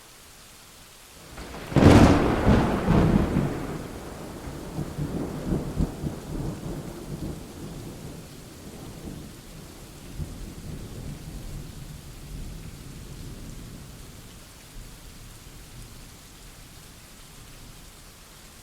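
Thunderstorm: steady rain hiss, then a close thunderclap about two seconds in, a sharp crack followed by a low rolling rumble that fades away over the next ten seconds or so.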